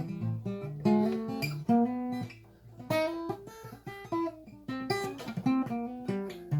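Acoustic guitar playing a strummed and picked passage of chords and single notes.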